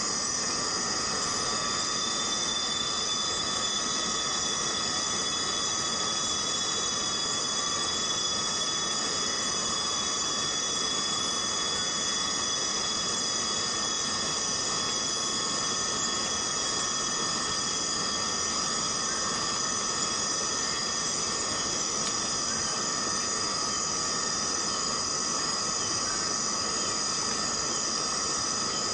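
A chorus of cicadas buzzing, a steady high-pitched drone that holds level throughout, with a fainter, lower buzz underneath.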